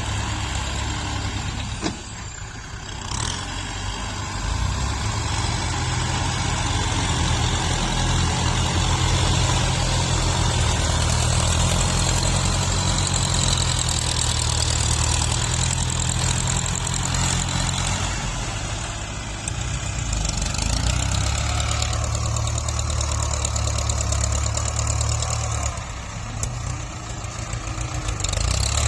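Tractor engine running steadily while grading soil. It dips briefly a couple of seconds in and again near the end.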